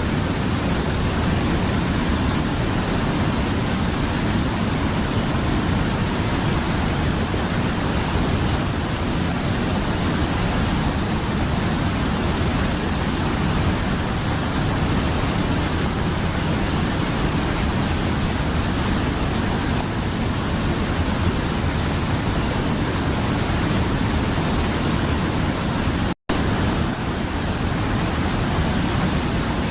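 Mountain river flowing, a steady rushing of water with a deep low rumble, which cuts out for an instant about 26 seconds in.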